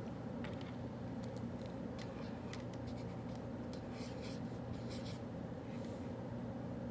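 Writing on paper: a quick series of short scratching strokes, over a steady low hum.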